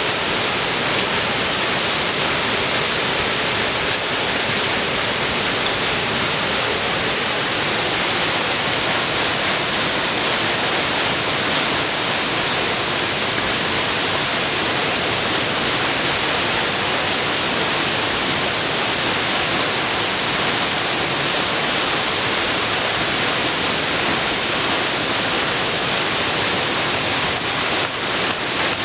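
Steady, loud rush of a waterfall's falling water, with a few short knocks near the end.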